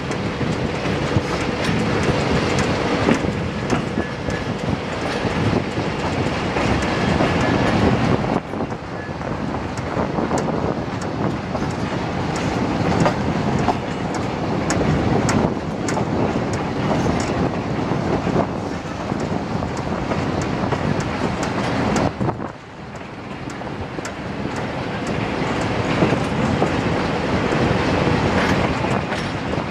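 Passenger train running out of a station yard behind a CFR Class 69 diesel locomotive, heard from a carriage window: steady running noise with wheels clicking over rail joints. The noise drops away briefly twice, about eight and twenty-two seconds in.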